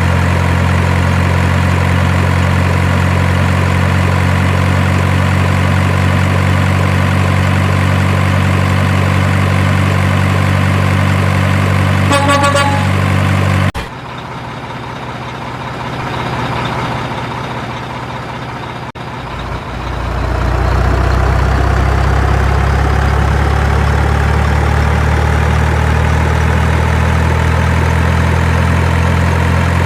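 Heavy truck engine running steadily, with a short pulsing horn sounding about twelve seconds in. The sound then cuts off abruptly and comes back quieter, and a deep engine rumble builds whose pitch slowly rises.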